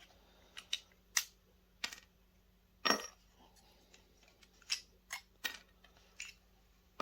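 Small glass lenses and plastic parts from a video projector clicking and clinking as they are handled: about ten short, separate clicks, the loudest about three seconds in with a brief ring.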